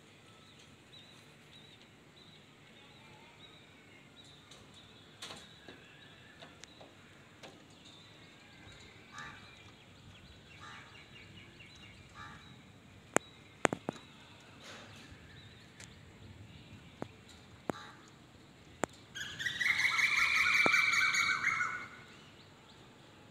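Outdoor birdsong: faint scattered chirps, then a loud, harsh, rapidly stuttering call lasting about three seconds near the end.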